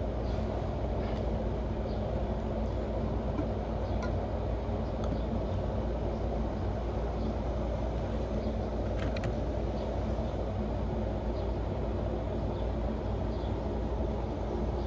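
Steady low background hum and rumble with a few faint clicks.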